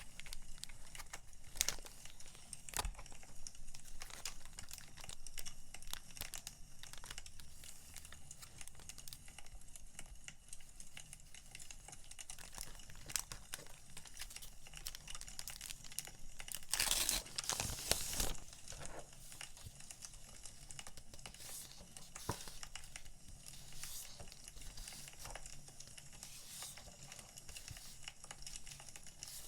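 Paper and plastic packaging crinkling and rustling as stationery is unpacked, with a louder crinkling burst of about a second and a half roughly seventeen seconds in. Underneath runs the scattered crackle of burning firewood.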